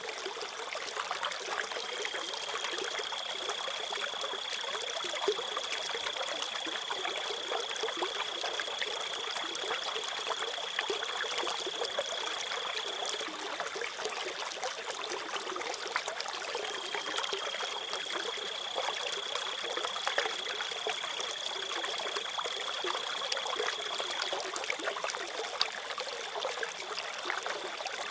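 Trickling stream of water with crickets trilling, a steady high-pitched insect trill over the water. The trill swells for about eleven seconds, drops back for a few seconds, then swells again for about eight seconds.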